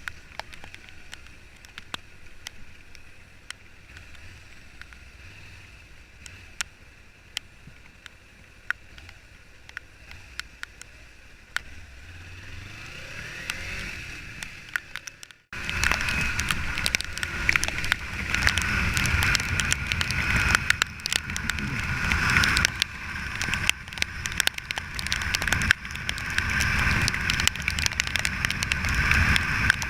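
Rain and wind on an open camera microphone during a ride in the rain: a steady noisy wash peppered with sharp ticks and crackles from drops striking. About halfway through it cuts abruptly to a much louder, denser rush with a low rumble and heavier crackling.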